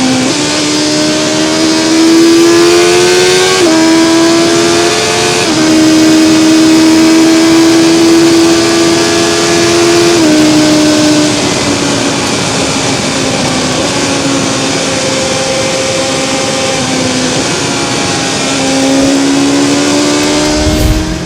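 BMW S1000XR's inline-four engine pulling at speed, its note climbing and dropping back at upshifts about 4, 5.5 and 10 seconds in. It then eases off and falls, and climbs again near the end, over steady wind rush. A brief low thump at the very end.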